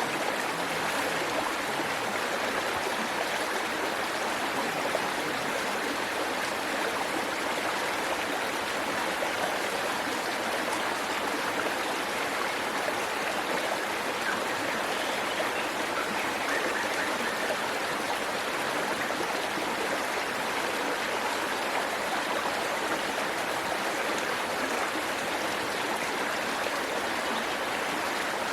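Waterfall: water pouring and splashing over rocks, a steady, even rushing.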